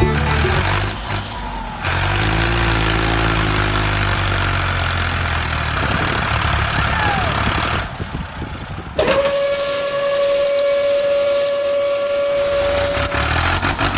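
A loud, steady hiss for several seconds, then about nine seconds in a steady high whistle that holds one pitch for about four seconds.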